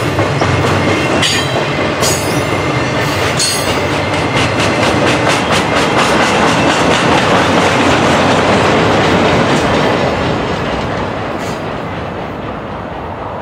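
Freight train of continuous welded rail rolling past: rail rack cars, then the tail-end rail-handling cars. The wheels clickety-clack over the rail joints, with a fast even run of clicks in the middle. The rumble fades over the last couple of seconds as the end of the train goes by.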